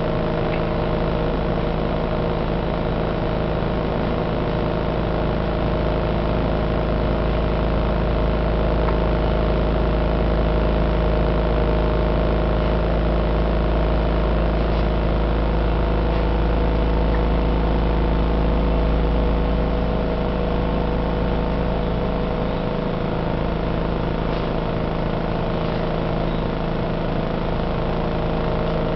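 Heavy construction machinery, a road roller among it, running over the roadway: a deep, earthquake-like rumble under a steady engine hum. The rumble is strongest for the first two-thirds and eases off about twenty seconds in.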